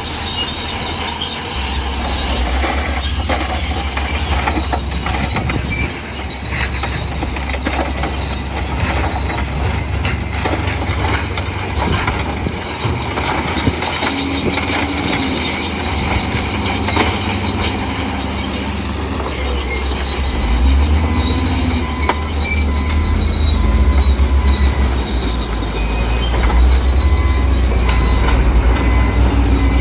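Crawler bulldozer working rock fill: a steady diesel rumble under the squeal and clank of its steel tracks, with rocks knocking and scraping. It gets louder in the last third.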